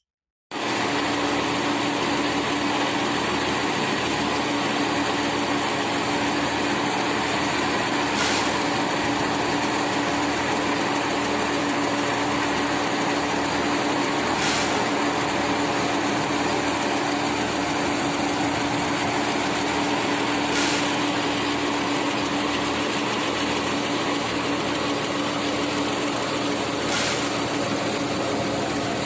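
A small engine running steadily at an even speed, with a short hiss about every six seconds; it starts abruptly just after the start.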